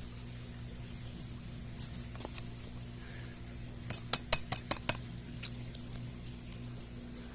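Light clicks and taps as an umbrella and its stand are handled: a few faint ones about two seconds in, then a quick run of about six sharp clicks in under a second. A steady low hum runs underneath.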